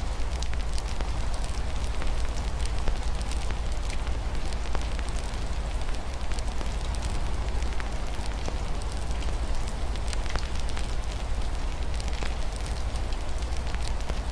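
Wood fire crackling with many small sharp pops, over steady rain and a constant low rumble.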